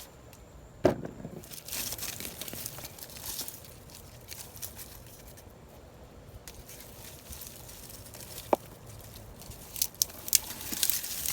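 Hands digging through soil and dry, died-back potato vines in a container during a potato harvest: rustling and crunching, with a few sharp knocks, the loudest about a second in.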